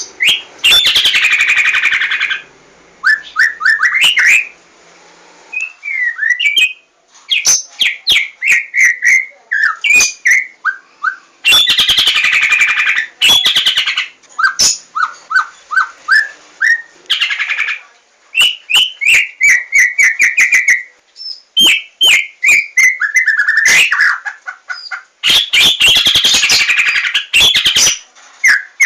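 White-rumped shama of the Javanese 'larwo' form in full, varied song: loud stretches of rapid chattering alternate with runs of quick repeated whistled notes, punctuated by sharp clicks.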